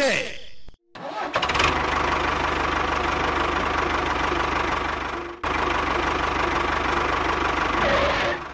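Tractor engine starting about a second in, then running steadily, with a brief break about five and a half seconds in.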